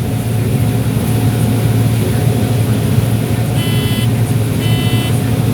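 A vehicle engine running steadily with a deep, even drone. About three and a half seconds in, a repeating electronic beep starts, roughly once a second.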